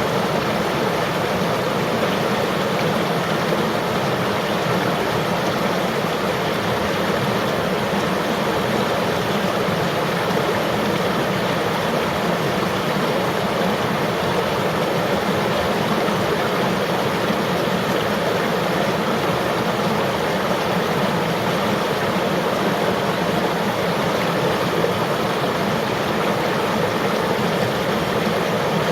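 Flowing river water: a steady, even rushing that does not change.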